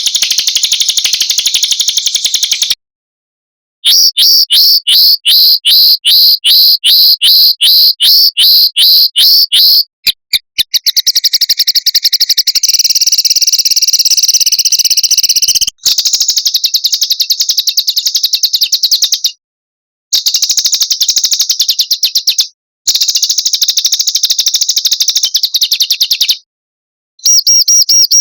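Recorded small songbirds' rapid trills and chirp series, edited into phrases of a few seconds that cut off abruptly into brief silences. One phrase has slower, evenly spaced notes, about three a second. This is bird-song training audio (masteran) of the fast 'roll' and 'tembakan' kind, played to teach caged songbirds new song.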